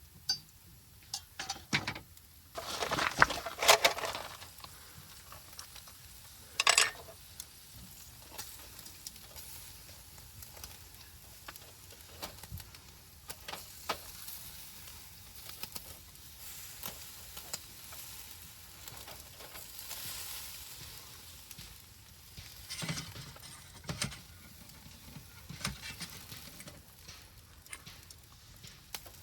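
Wood fire burning in a titanium fire pit, hissing steadily with small scattered crackles and pops. A cluster of louder clattering knocks comes about three seconds in, and another sharp clatter about seven seconds in.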